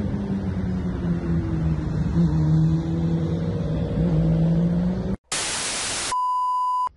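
A motor vehicle's engine running steadily with a low hum, its pitch shifting slightly about two seconds in. About five seconds in it cuts abruptly to a burst of TV static hiss, then a steady high test-tone beep that stops just before the end.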